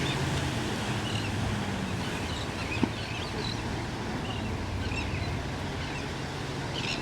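A boat engine running at a steady low hum over wave and water noise, with short high chirps now and then and one sharp click about three seconds in.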